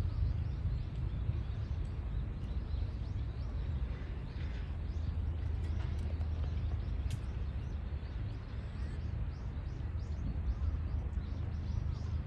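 Outdoor ambience of a steady low rumble with small birds chirping, short high calls that come more often in the last few seconds, and a single sharp click about seven seconds in.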